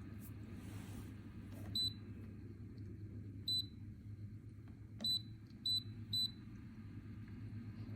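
Five short, high electronic beeps from a humidifier's touch control panel, as of buttons being pressed. There are two spaced apart, then three in quick succession, over a steady low hum.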